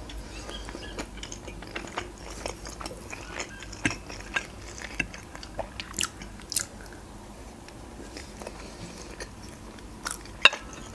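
A person chewing mouthfuls of soft boiled macaroni with minced meat, with many small wet mouth clicks and smacks. There are a few sharper clicks, the loudest near the end, as a metal fork goes back to the plate.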